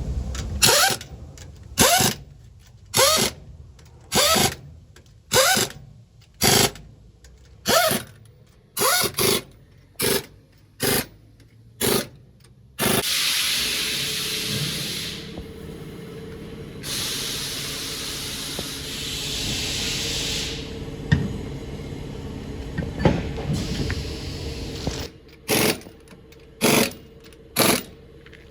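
Impact wrench running lug nuts on a truck wheel in about a dozen short bursts about a second apart, then a long stretch of steady hissing, then three more bursts near the end.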